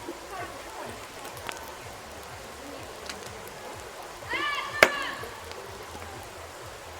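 Campfire burning with a steady hiss and scattered crackles and pops, one loud sharp pop about five seconds in. Just before that pop comes a short high-pitched call.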